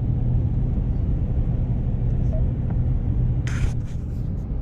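Steady low rumble of engine and road noise inside a moving RV's cabin while cruising on the highway, with a brief hiss about three and a half seconds in.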